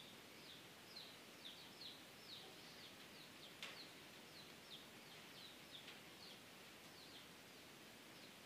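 Faint, repeated short chirps of small birds, a few a second, over quiet background hiss, with a single sharp click a little past halfway.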